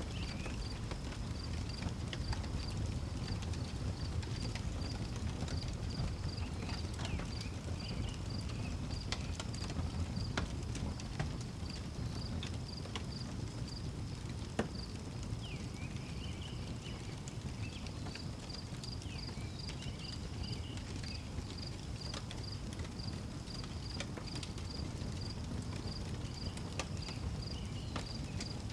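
Outdoor wood fire crackling with scattered sharp pops over a low steady rumble, while a cricket chirps in a regular, even pulse throughout. Short chirping calls come in a few times.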